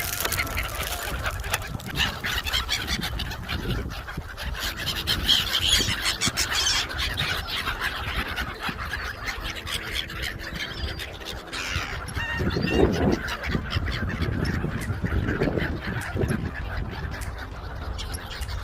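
A crowd of waterbirds calling and honking over one another while they are fed, with a run of loud, low honks about two-thirds of the way in.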